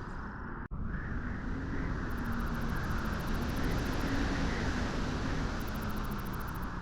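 Steady beach wind, a dense rushing noise that swells a little midway. It cuts out for an instant under a second in.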